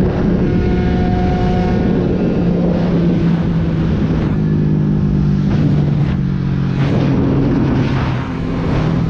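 Aprilia RS 125's single-cylinder two-stroke engine running hard on the move, steady and loud. Its pitch steps down about four seconds in, and the sound dips briefly near the end before the pitch changes again.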